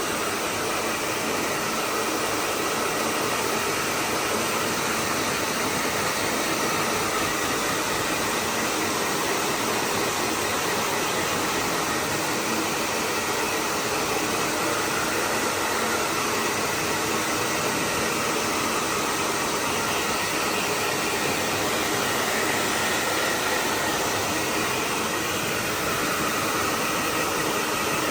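Hand-held hair dryer blowing steadily, drying a pet monkey's fur.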